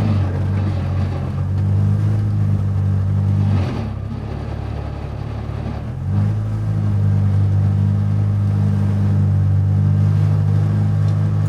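Mitsubishi Lancer Evo VI Group A rally car's turbocharged four-cylinder engine running hard on track; it eases off a little under four seconds in and pulls strongly again at about six seconds.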